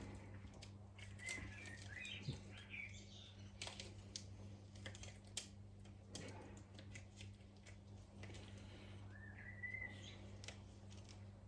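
Scattered light clicks and taps of small tools and parts handled on a Look X-Track bicycle pedal while its end cap is worked off, over a low steady hum. Two short warbling chirps come through, one a little after the start and one near the end.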